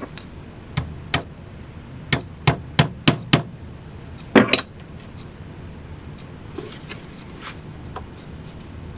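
Small hammer tapping tacks in, about nine sharp strikes in the first five seconds, the last two close together and loudest. Fainter ticks follow.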